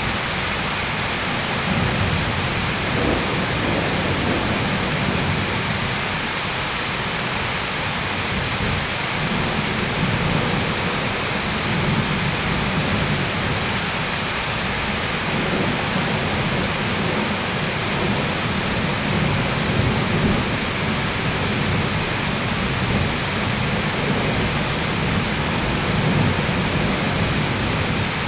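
Heavy rain falling steadily, with low thunder rumbling continuously underneath and swelling slightly now and then.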